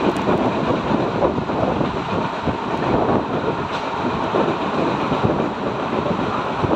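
Express train's coaches running at speed, heard from an open door: a steady rumble and irregular clatter of wheels on the rails.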